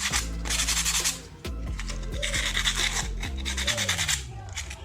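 Motorcycle brake pad being rubbed on sandpaper in repeated back-and-forth scraping strokes, scuffing the pad clean to cure a squealing disc brake. Background music plays under it.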